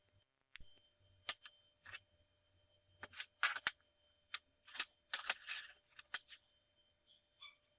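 A dozen or so irregular clicks and light knocks, the loudest a cluster about three and a half seconds in and another around five seconds in, over a faint steady hum.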